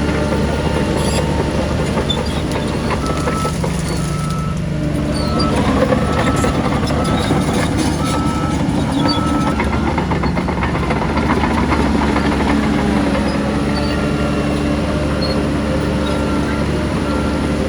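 Heavy diesel earthmoving machinery running steadily under load. A backup alarm beeps about once a second for several seconds and starts again near the end.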